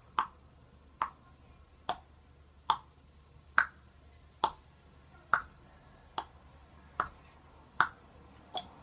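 A regular series of sharp clicks, about eleven of them, evenly spaced a little under a second apart, each with a quick falling pitch.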